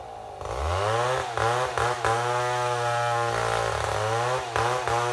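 Chainsaw engine revs up from idle about half a second in, drops back briefly a few times, then runs steadily at full throttle while ripping a mahogany log lengthwise into slabs on a chainsaw mill.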